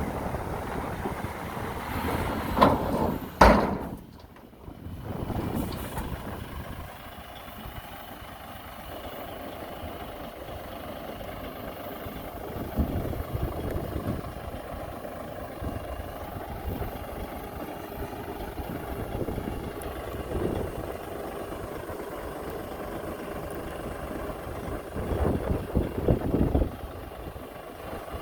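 Heavy construction machinery engines running steadily, with a sharp bang about three seconds in and louder uneven surges near the end.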